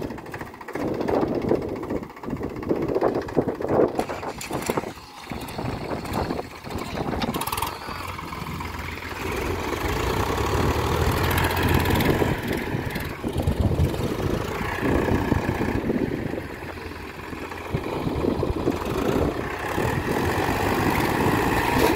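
Tractor diesel engine running, uneven at first and then settling into a steady run about eight seconds in, growing louder now and then as it is revved, as if working to pull the tractor out of the river.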